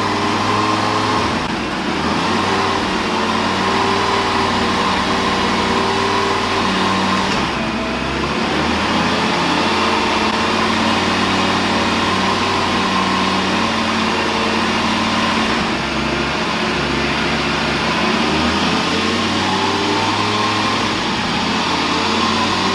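Lamborghini Gallardo V10 engine running steadily near idle while it warms up on its first run after a rebuild, its note stepping slightly up and down a few times.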